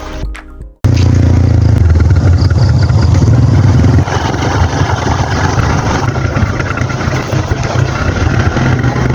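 A small engine running steadily and loud up close, with a rushing noise over it. It comes in abruptly about a second in, as music cuts off, and eases a little in level about four seconds in.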